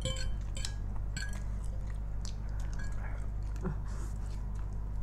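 Two people chewing and eating spicy instant noodles close to the microphone, with scattered small clicks of forks against plates.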